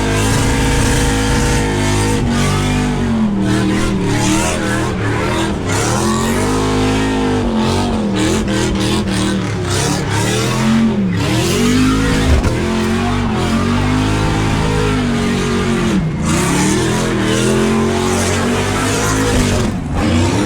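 V8 engine in a burnout car revving hard and loud, its pitch climbing and dropping every couple of seconds as the throttle is worked.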